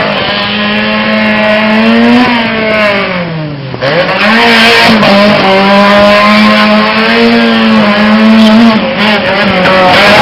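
Fiat 127's four-cylinder engine revving hard while racing through a cone gymkhana course, held at high revs, dropping away sharply as the throttle is lifted about three and a half seconds in, then revving straight back up and held high again.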